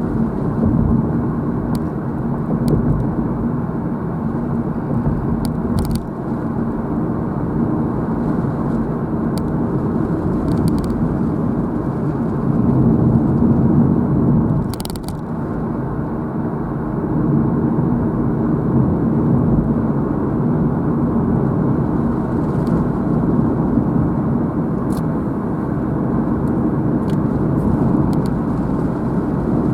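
Car driving along a road, heard from inside the vehicle: steady engine hum and tyre noise, easing briefly about halfway through before picking up again.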